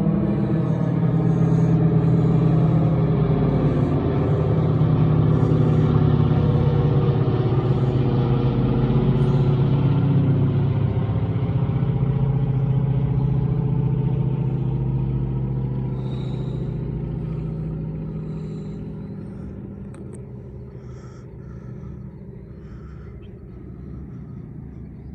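A motor vehicle's engine running steadily, with a low, even hum that fades away over the second half.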